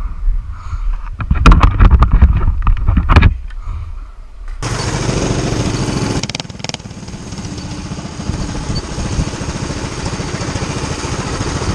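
Motorcycle engine with wind buffeting the rider's microphone and a few sharp knocks. About four and a half seconds in it switches abruptly to a steadier, hissier drone of small mini-bike engines running.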